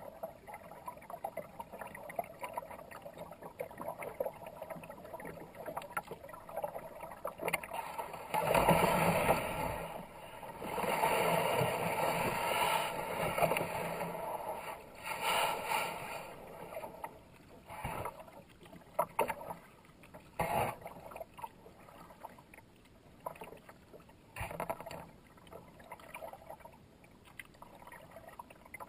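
Kayak paddle strokes splashing in fast river water, with water washing along the hull. The splashing swells into a louder, longer stretch about a third of the way in, then goes back to separate, shorter strokes.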